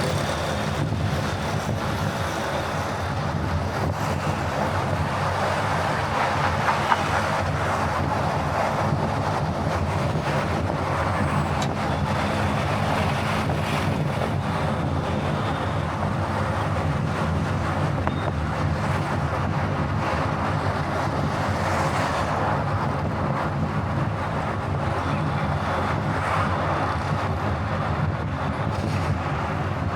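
A car driving steadily at highway speed: continuous tyre-on-road and engine noise with a low drone, unchanging throughout.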